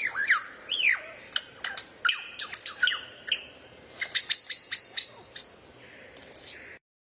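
A songbird singing in a run of sharp chirps and down-slurred whistles, with a quick series of clipped notes about two-thirds of the way through. The sound cuts off abruptly near the end.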